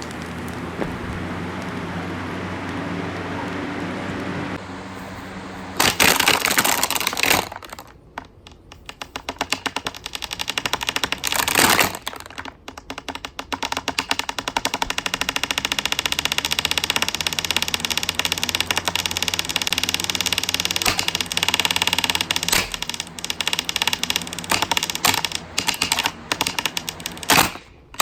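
Hurricane box fan running with a steady motor hum, then from about six seconds in a loud, rapid clattering and cracking in surges as the fan is smashed apart.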